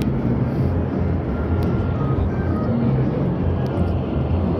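Airplane engine heard as a steady low drone.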